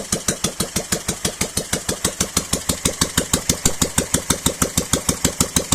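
Ural flat-twin engine in a Dnepr-16 motorcycle idling steadily, with evenly spaced exhaust beats of about seven a second.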